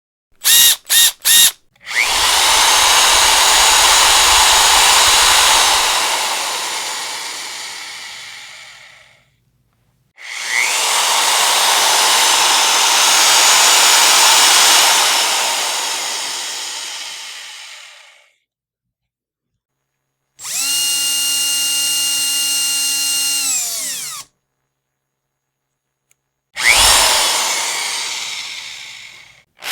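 Electric power drill run in separate bursts with pauses between. It gives three quick blips, then two long runs whose noisy whirr winds down slowly as the trigger is released. After that comes a few seconds of steady high motor whine that cuts off sharply, and a final short run that fades out.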